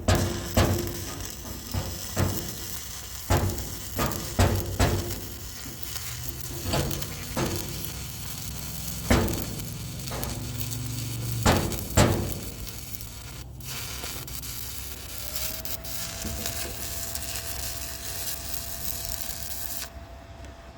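Stick-welding arc crackling and sizzling as an electrode burns along a vertical-up weld on steel, with sharp pops through the first half and a steadier hiss after. A steady tone comes in about three-quarters through, and the arc cuts off about a second before the end.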